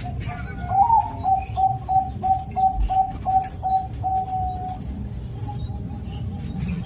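Zebra dove (perkutut) cooing: a quick run of short coos, about three a second, starting on a higher note and ending in a longer held coo, with fainter coos after. A steady low rumble runs underneath.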